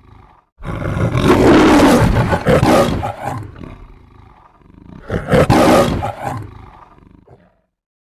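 The MGM logo's lion roar: a lion roaring twice, a long roar starting about half a second in and a shorter one about five seconds in, each fading away.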